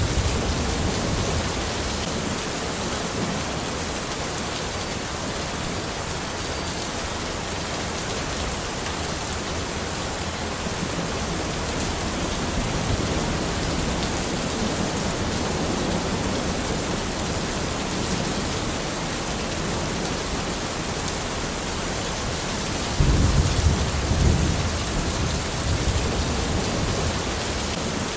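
Steady rain falling in a forest, an even hiss throughout. A low rumble of thunder swells up suddenly about two thirds of the way through and fades within a couple of seconds.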